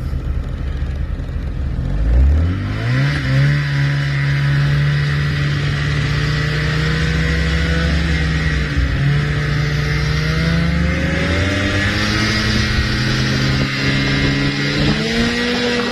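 Snowmobile engine accelerating hard about two seconds in, then running at high speed with a steady hiss, its pitch dipping briefly midway and climbing again near the end.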